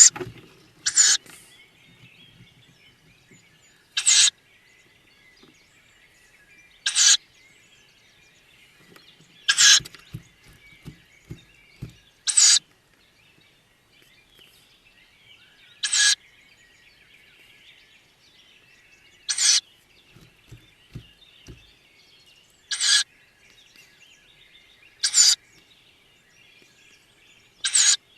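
Tawny owl chicks in the nest box giving short, hissing begging calls, about one every three seconds. Behind them is faint steady background chirping, and there are a few soft knocks around the middle.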